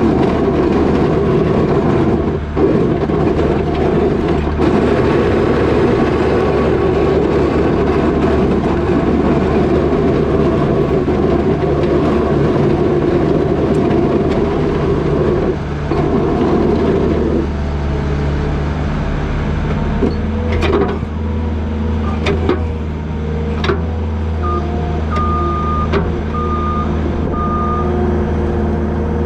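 New Holland L220 skid steer's diesel engine running steadily while working, with a heavy rush of noise that drops away about two-thirds of the way through. A few sharp knocks follow, then the backup alarm beeps about four times near the end.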